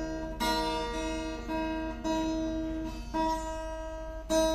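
Plucked string instrument playing a slow melody, with sustained ringing notes and a new note or chord struck roughly every second.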